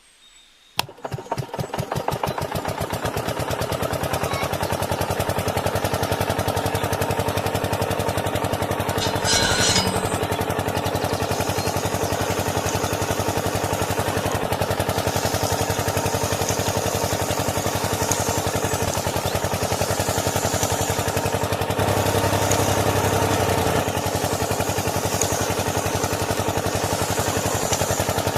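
Tractor engine starting about a second in, catching after a few quick firing strokes, then running steadily with an even beat. A brief hissing burst comes about a third of the way through.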